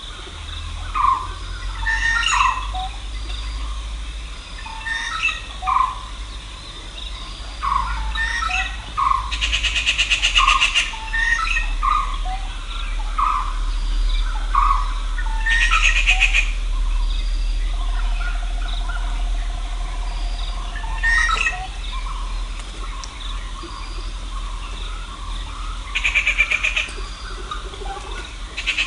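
Morning birdsong from several birds: repeated short chirping notes throughout, with a few rapid buzzy trills about a second long, over a steady low rumble.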